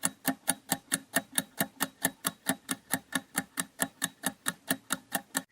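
Quiz countdown timer sound effect ticking like a clock, a steady run of sharp ticks about four to five a second.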